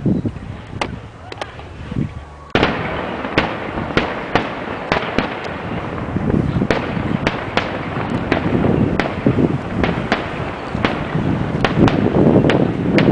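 A fireworks display: a rapid, irregular string of sharp bangs and crackling pops over a steady rushing hiss, which comes up suddenly about two and a half seconds in.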